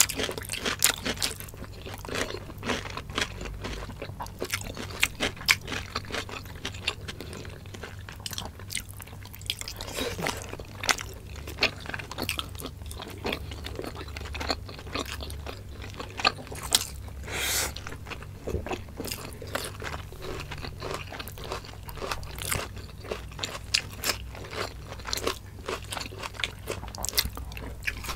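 Close-miked chewing and biting of spicy adobo chicken innards (gizzards, livers and hearts), with crunching, wet mouth clicks and lip smacks coming thick and irregular, over a steady low hum.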